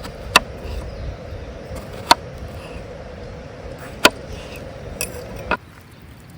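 Hatchet chopping firewood: three sharp, ringing strikes about two seconds apart, then two lighter knocks near the end. A steady background hum stops suddenly just after the last knock.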